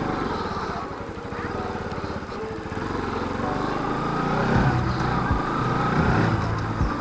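Motorcycle engine running steadily while being ridden, with a fast, even run of firing pulses.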